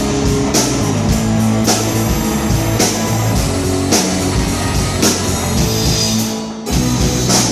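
A live band playing a rock song instrumental between vocal lines: guitar, bass and drum kit, with a hard drum or cymbal hit about once a second. The band drops out briefly about six and a half seconds in, then comes back in.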